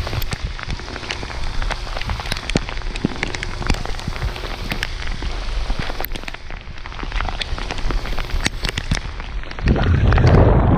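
Heavy rain pouring down, with many sharp drop hits close to the microphone. Near the end a low wind rumble buffets the microphone.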